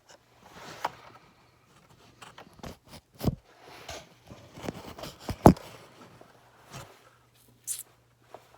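Scattered clicks and knocks of small Suzuki GS1100 carburetor parts being handled and fitted, the loudest about five and a half seconds in, over a faint steady hum.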